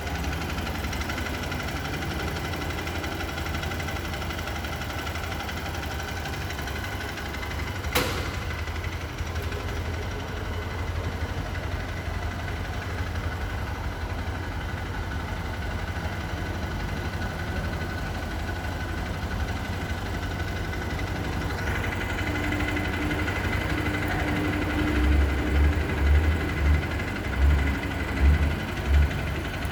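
An engine idling steadily, with a single sharp click about eight seconds in and a series of low thuds near the end.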